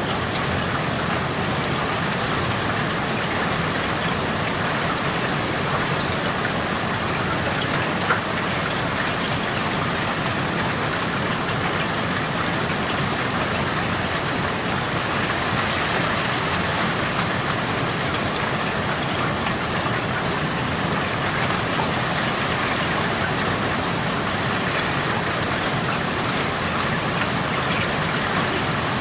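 Steady rain falling, an even unbroken hiss of drops, with one slightly louder single drop or tick about eight seconds in.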